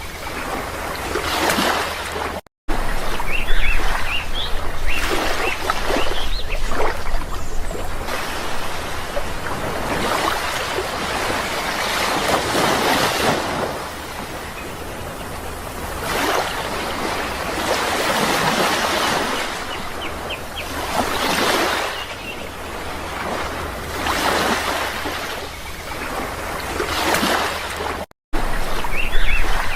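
Sea waves surging in and washing back every few seconds, with small birds chirping now and then over them. The sound drops out completely for an instant twice.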